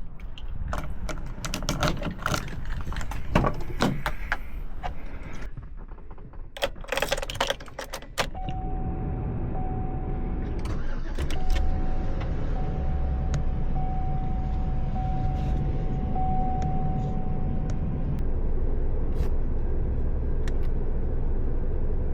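Keys and small clicks rattling for several seconds, then the ambulance's engine starts about eight seconds in and settles into a steady idle, with a steady high tone sounding over it for about ten seconds.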